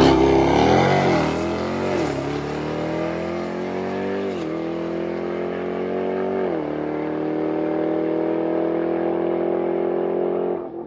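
Drag-racing Hemi V8 launching at full throttle and accelerating down the strip. Its note climbs through the gears, dropping at upshifts about two, four and a half and six and a half seconds in, then holds until it cuts off near the end.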